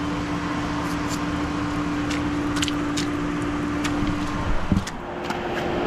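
A van driving on snow chains: steady engine and road hum with irregular clunky clanks from the tire chains, and a louder knock about four and a half seconds in.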